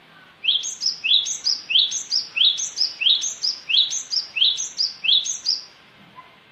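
Cinereous tit (gelatik batu) song: a loud run of about eight identical phrases, each a rising note followed by higher notes, repeated about one and a half times a second, stopping short near the end.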